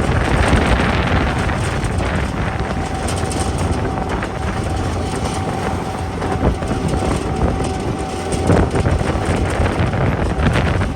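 Airport ramp tug driving, its engine rumbling under the rattle and clatter of the vehicle, with wind on the microphone. A steady high whine runs along with it and stops about eight seconds in.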